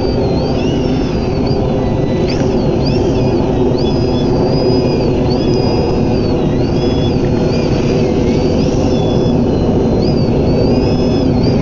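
Electric RC aerobatic plane's motor and propeller whining, the pitch repeatedly rising, holding and falling as the throttle is worked. A steady low rushing noise runs beneath it.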